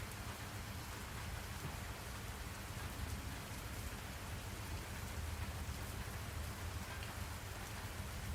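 Steady rain falling on a surface, an even hiss of drops with a low rumble underneath, used as a background noise track.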